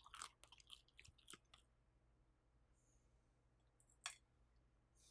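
Faint, wet chewing of air-fried veggie gyoza, with a run of small mouth clicks over the first second and a half. It then goes near-silent, apart from a single sharp click about four seconds in.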